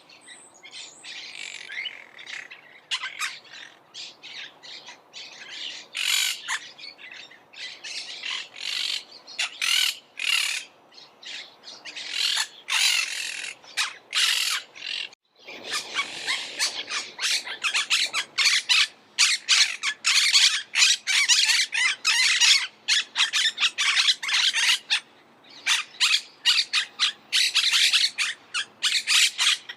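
Monk parakeets squawking: rapid, harsh, overlapping calls from several birds. The calling breaks off briefly about halfway through, then comes back louder and denser.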